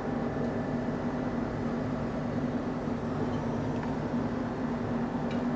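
Steady, even mechanical hum from a running machine, with a few faint clicks near the end.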